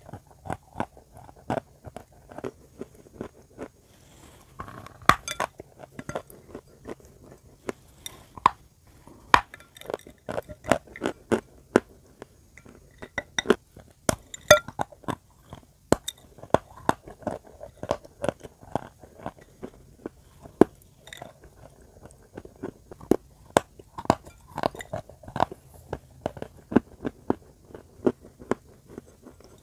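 Close-miked biting and chewing of chalk: many sharp crunches and crumbling clicks at an irregular pace.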